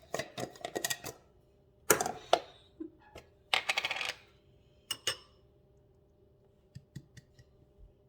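Kitchen clatter: several short bursts of clinking and rattling, as of metal utensils or dishes being handled, with a few light clicks near the end.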